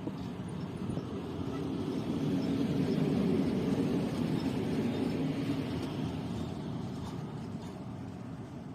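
EP20 electric locomotive passing slowly: a rumble of wheels on rail and running gear that builds to its loudest about three seconds in, then fades as it moves away.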